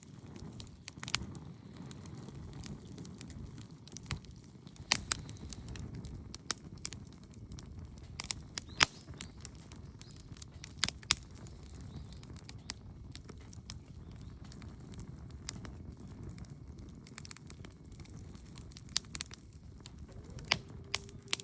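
Wood fire crackling: sharp pops and snaps come at irregular intervals over a low, steady rumble.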